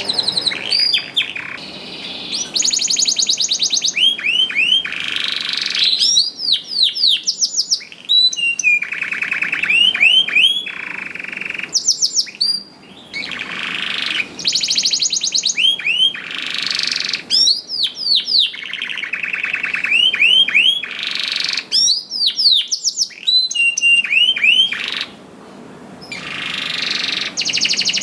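Domestic canary singing vigorously, phrase after phrase of rapid high trills and quick falling whistled notes, with a couple of brief pauses.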